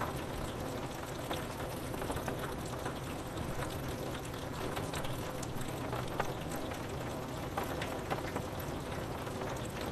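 Steady rain on a window: a constant hiss with many scattered sharp taps of drops striking the glass.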